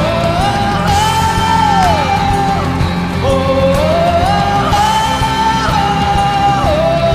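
A solo singer holding long, wordless high notes that slide up and down, over a band accompaniment.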